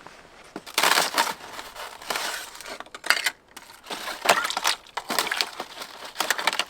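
Crunching footsteps, about six slow, uneven steps on a crisp, crunchy surface.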